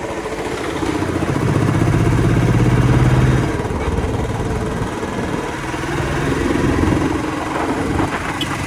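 Royal Enfield motorcycle engine running with a fast, even pulsing beat, swelling in loudness twice.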